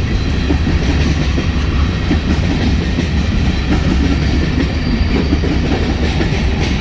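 BNSF freight train cars rolling slowly past on the rails, a steady low rumble of wheels on track.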